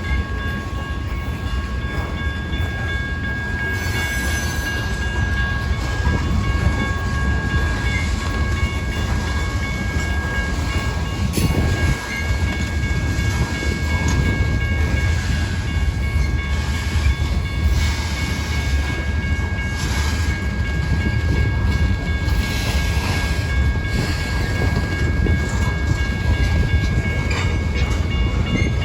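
Freight train rolling past at close range: a steady low rumble and clatter of railcars on the track, with a steady high-pitched tone running over it.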